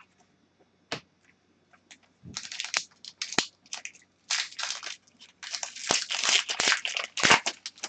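Hockey card pack wrapper crinkling and tearing as it is ripped open, in quick uneven bursts, after a single click.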